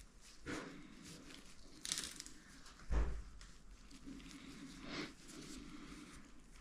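Scattered handling noises: a few short knocks and rustles, with a brief hiss a couple of seconds in and a louder thud about three seconds in.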